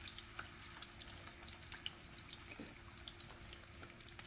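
Sliced plantains frying in oil in a pan: a faint sizzle with many small scattered pops and crackles.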